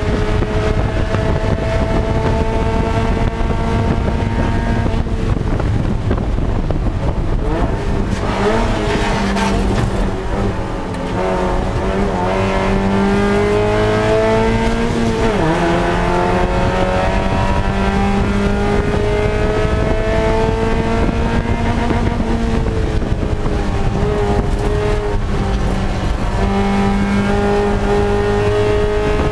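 Spec Miata race car's four-cylinder engine heard from inside the cockpit at racing speed: its note climbs steadily, eases and drops around nine to eleven seconds in, then falls sharply with a gear change near the middle and again past twenty seconds before climbing once more.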